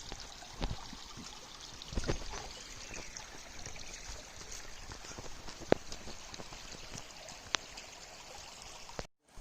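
Stream water flowing with a steady rushing sound, broken by a few sharp knocks and thumps. It cuts off suddenly near the end.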